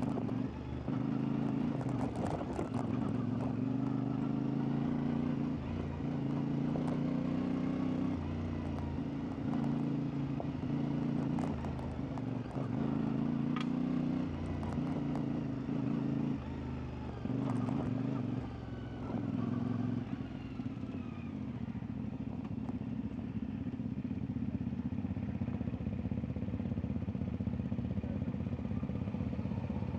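CFMoto 450MT's parallel-twin engine running under changing throttle, its note stepping up and down, with occasional knocks and clatter. After about twenty seconds it settles to a lower, steadier note.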